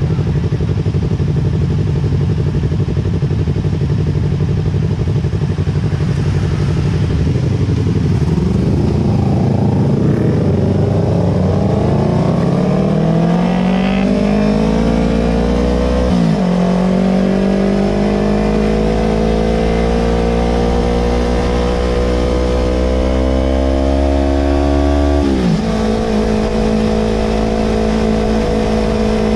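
Yamaha R25's 250 cc parallel-twin engine through a Villan Pro 2 aftermarket exhaust, running steadily at first and then rising in pitch as the bike accelerates. The pitch drops suddenly at two upshifts, about halfway through and near the end, and then holds at a steady cruise.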